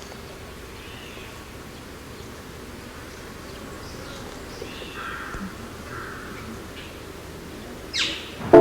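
Birds chirping faintly over a low, steady outdoor background, with one louder bird call near the end.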